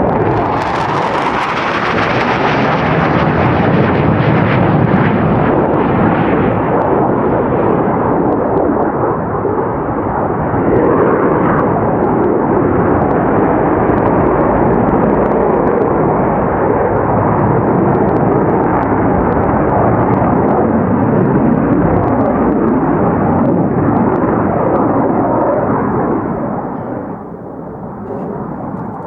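Loud jet roar from the twin J79 turbojet engines of an F-4 Phantom flying a display pass. The roar is harshest and brightest about a second in, stays loud and dulls gradually, then eases off near the end.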